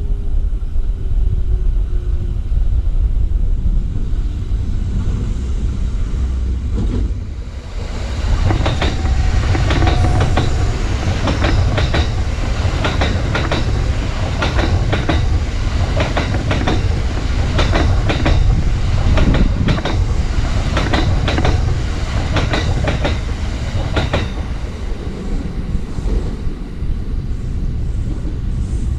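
Electric commuter train passing on the next track, its wheels clacking over the rail joints in a long run of repeated clicks, many in pairs, over a steady low rumble. The clacking starts about eight seconds in and stops a few seconds before the end.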